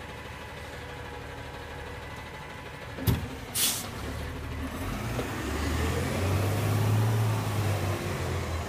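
Garbage truck's diesel engine running steadily, then a sharp knock and a short hiss of air brake release about three seconds in. After that the engine revs up, louder for a few seconds, and begins to ease off near the end.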